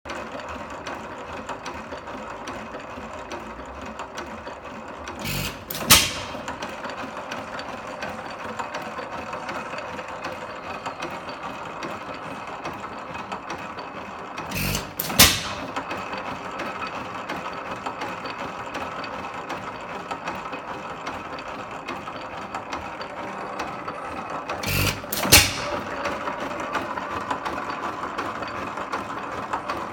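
8 hp Economy single-cylinder hit-and-miss engine running unloaded: it fires only three times, each time a softer hit followed by a louder bang about half a second later, roughly every ten seconds, and coasts between firings with a steady mechanical clatter from its valve gear and governor.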